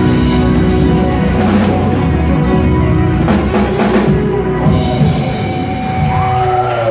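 Live rock band playing the closing of a song: loud drum fills with several sharp hits over held chords, with sliding notes near the end.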